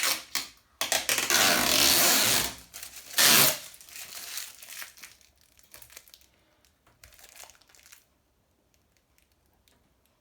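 Protective plastic film being pulled off a washing machine's front panel, crinkling and tearing. A long loud stretch of rustling and a sharp burst come in the first few seconds, then lighter crackles that fade out by about eight seconds in.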